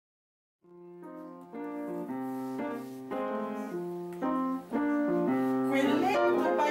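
Background music: slow piano chords start after a brief silence and grow steadily louder, with a quicker run of rippling notes near the end.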